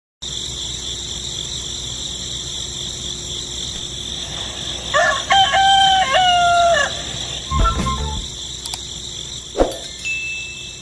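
A rooster crowing once, about five seconds in, for about two seconds over a steady hiss. A low thump and a short click follow.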